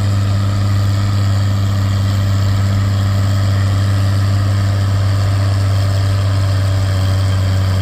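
Antique pulling tractor's engine running loud at a steady, unchanging speed.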